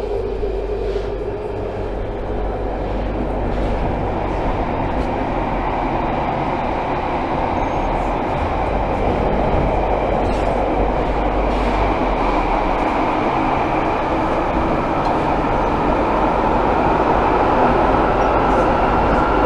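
London Underground 1995 Stock tube train running through a tunnel, heard from inside the carriage. A steady running noise with a whine in it grows gradually louder as the train picks up speed.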